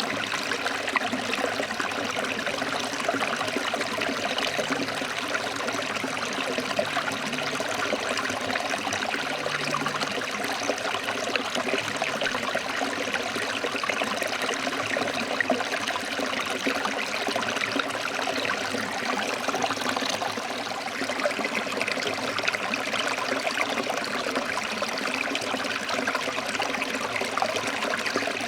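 Forest stream flowing over rocks, a steady, even rush of water.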